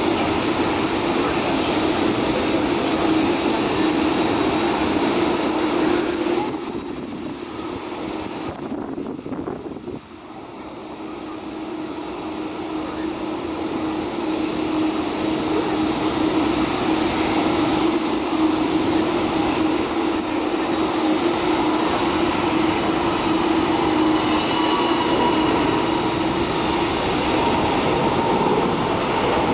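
Airbus A380 jet engines running at high power, a loud steady rush of jet noise with a droning tone. The sound falls away sharply about seven seconds in, then swells back up over several seconds and stays loud.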